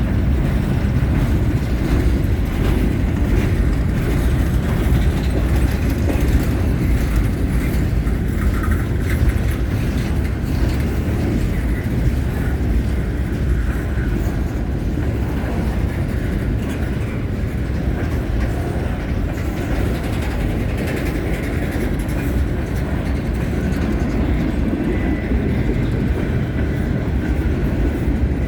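Freight train cars rolling past close by: a steady, loud rumble of steel wheels on rail with scattered clicks of wheel clatter.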